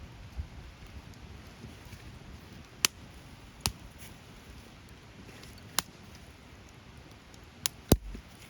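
Wood fire burning with a steady low rustle and several sharp crackling pops, two close together near the end, the second of them the loudest.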